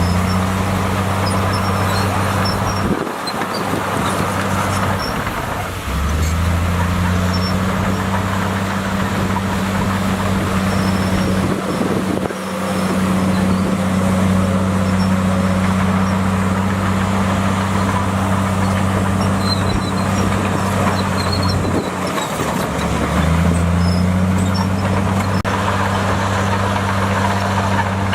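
Bulldozer's diesel engine running under load, its hum dropping off twice and rising back up to speed a few seconds later.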